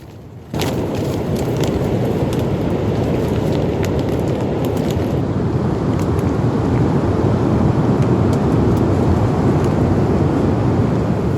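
Strong wind blowing hard on the microphone, a steady deep rush that cuts in suddenly about half a second in, with scattered light ticks over it.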